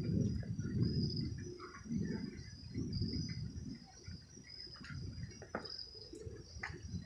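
Night insects such as crickets chirping in a steady, high, pulsing chorus. Under them a low rumble fades away over the first few seconds, and a few faint clicks follow.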